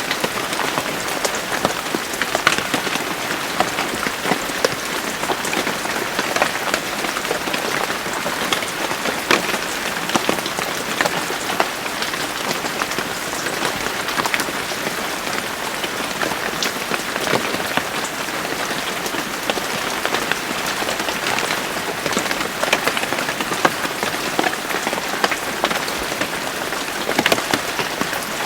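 Steady rain falling on a surface, an even hiss with many distinct drops ticking through it.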